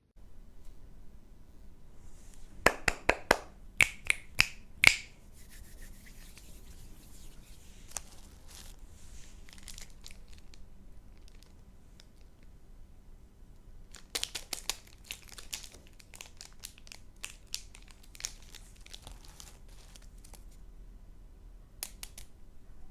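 Plastic candy packaging being handled and torn open, crinkling and rustling. A loud cluster of sharp clicks and taps comes a few seconds in, and more come in the second half.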